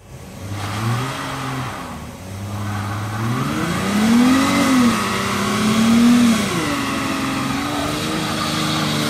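2015 Dodge Charger SXT Rallye's 3.6-litre V6 revved hard during a burnout, held at steady revs, climbing and falling several times. From about midway on, the rear tyres spin and screech.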